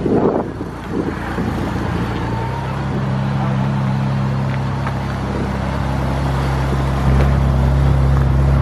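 Twin-turbocharged Nissan 370Z's 3.7-litre V6 idling while still cold, before it has warmed up. The idle settles to a steady note about two and a half seconds in and grows louder and deeper about seven seconds in.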